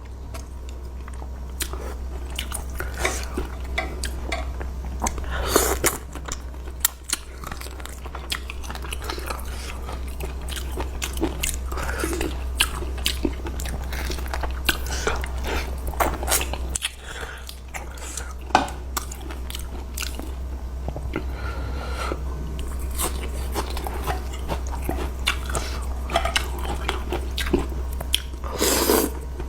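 Close-miked eating of curry noodles: chewing and biting, with many short crunches and wet mouth clicks, over a steady low hum.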